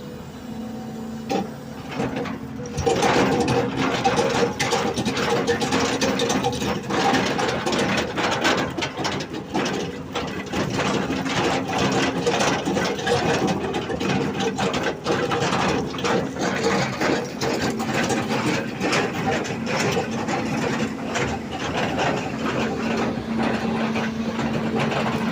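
Excavator at work: its engine hums steadily under dense metallic rattling and clanking. It gets much louder about two and a half seconds in.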